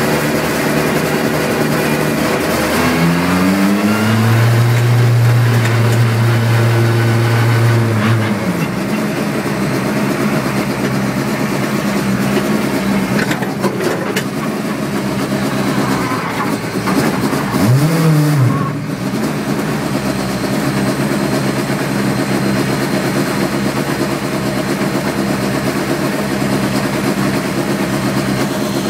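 Skoda rally car's engine heard from inside the cabin, running steadily at low revs. The revs climb about three seconds in and hold until about eight seconds, then drop back, with a short rev blip near eighteen seconds.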